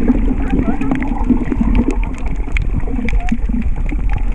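Underwater sound: a steady low rumble and wash of moving water, scattered with many short sharp clicks.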